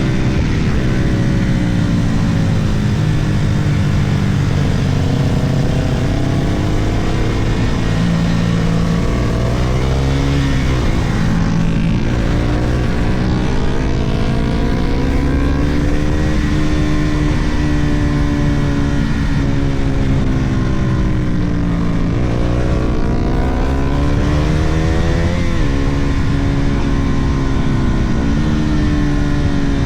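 Sport motorcycle engine heard from on board, ridden hard with its note climbing and falling repeatedly as the throttle opens and closes and it changes gear, over a constant rush of wind.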